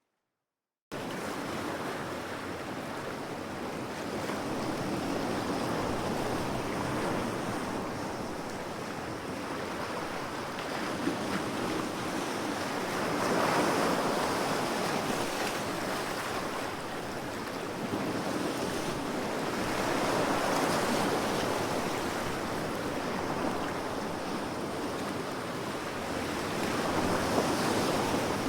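Ocean waves washing ashore, a steady rush of surf that swells and eases about every seven seconds. It starts abruptly about a second in, after a moment of silence.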